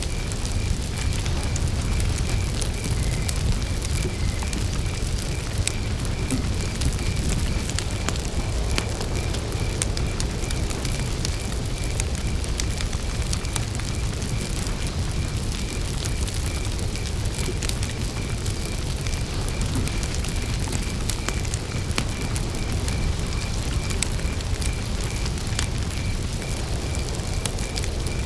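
Wood campfire crackling with sharp pops over a steady low rumble of flames, while a cricket chirps in an even, unbroken rhythm.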